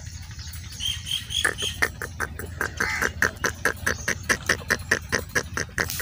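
A bird calling in a fast, even series of short notes, about five a second, starting about a second and a half in, with a few higher chirps just before.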